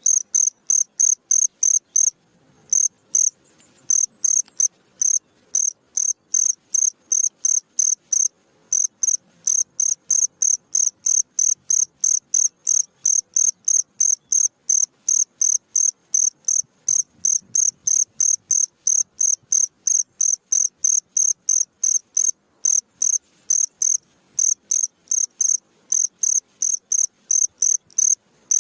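A cricket chirping: a steady train of short, high-pitched chirps, about three a second, broken by a couple of brief pauses.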